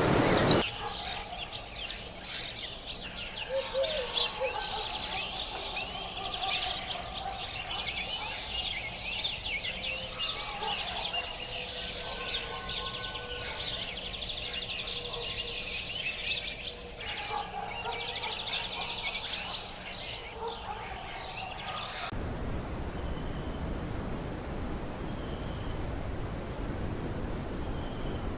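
Many birds calling together in rainforest, a dense mix of high chirps and trills with some lower calls. About 22 seconds in, the sound cuts abruptly to a steady high-pitched pulsing buzz over a low rush.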